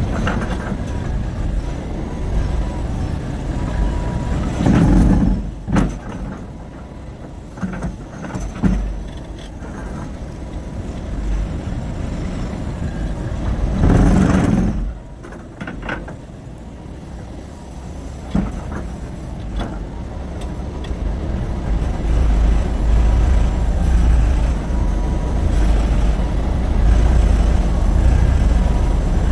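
Terex RH30F hydraulic excavator working: a steady low engine and hydraulic rumble, with two louder surges about nine seconds apart, and a heavier low rumble in the last third.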